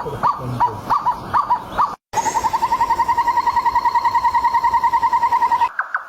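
Bird calls. First comes a run of short, sharply pitched calls about three or four a second. After a brief break there is a fast, even trill of repeated notes, about ten a second, held for over three seconds. Near the end it switches to a slower series of higher notes.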